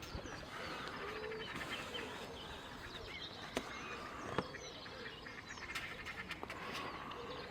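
Faint outdoor ambience of birds calling, with a few scattered clicks and steps from someone walking along the bank.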